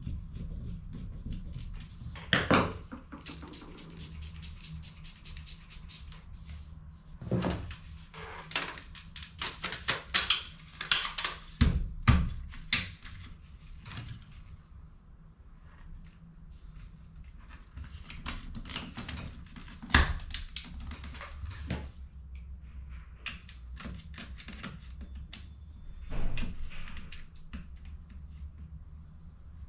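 Plastic clicks and knocks from hands working on HP CE285A laser toner cartridges, with a quick run of clicks in the middle and a few single louder knocks, over a steady low hum.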